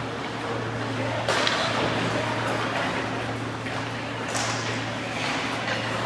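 Ice hockey game noise in a rink: a few sharp scrapes and clacks of skates, sticks and puck on the ice, over a steady low hum and a constant wash of arena noise.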